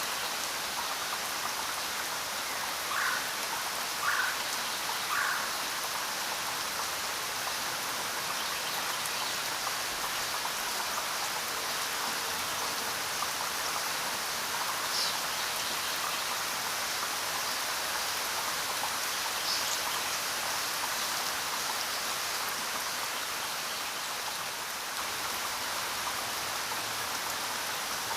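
Steady rain falling, an even hiss of drops on a surface, with three short louder sounds a few seconds in.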